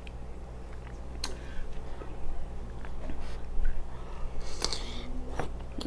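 Close-up mouth sounds of biting and chewing a sauce-dipped cucumber spear: scattered wet clicks, and a louder crunchy bite a little over four and a half seconds in.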